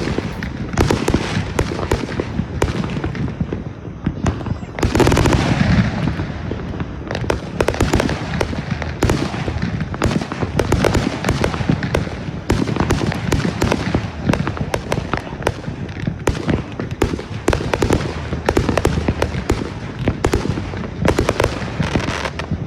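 Consumer fireworks going off in a rapid, continuous barrage of bangs and reports. The loudest blast comes about five seconds in, followed by a trailing rumble.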